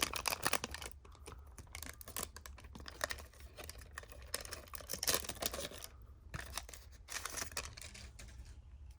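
Trading cards being handled and flipped through: a run of light clicks and short rustles as the cards slide and flick against each other.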